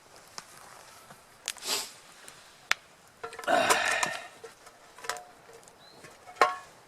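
Camp cooking gear being handled: several separate sharp clicks and knocks, with a louder, brief clatter about halfway through.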